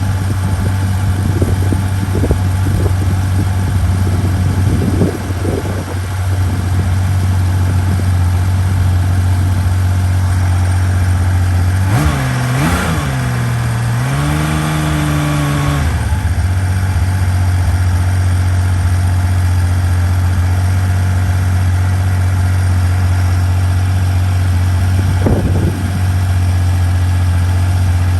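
1982 Honda CBX's air-cooled inline-six engine idling steadily while warming up from a cold start. About twelve seconds in the throttle is blipped: the note rises, dips, holds a little higher for a couple of seconds, then drops back to idle.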